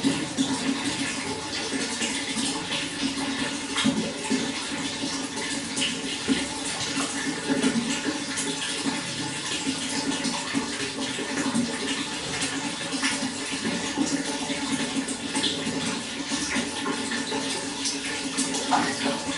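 Running water flowing steadily, with many small splashes and drips over the even rush.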